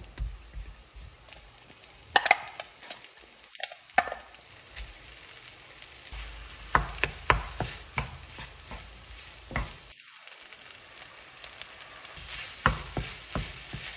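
Chinese-style meat fried rice sizzling in a pan while being stirred, a utensil knocking against the pan every second or so; the sizzle grows louder through the second half.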